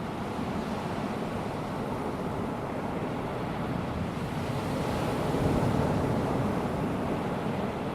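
Calm sea: small waves washing onto a sandy beach, a steady surf wash that swells to a peak about five and a half seconds in and then eases off.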